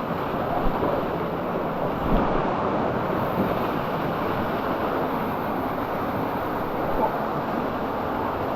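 Steady rush of fast-flowing canyon water, with a few light knocks.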